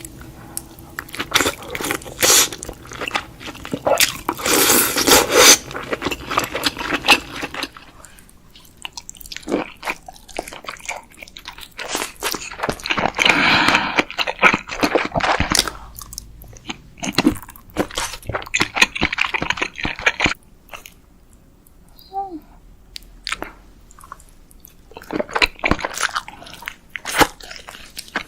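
Close-miked eating of king crab: shells cracking and crunching in bursts, with chewing, and a quieter stretch about three quarters of the way through.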